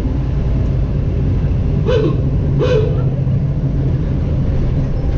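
1948 Ford F5 bus under way: a steady low engine and road rumble. About two seconds in come two short pitched calls, less than a second apart.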